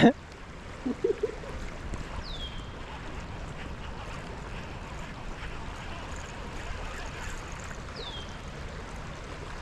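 A bird calls twice with short, falling whistles over a steady hiss of wind and water around the boat. Two brief louder low sounds come about a second in.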